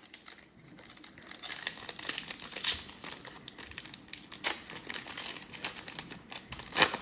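Foil wrapper of a trading card pack crinkling as it is handled and torn open, a run of dry crackles with a sharp one just before three seconds and a louder one near the end.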